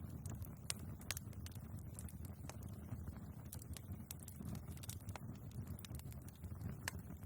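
Wood fire burning in a fireplace: a steady low rumble of the flames with irregular sharp crackles and pops from the logs, a few louder than the rest.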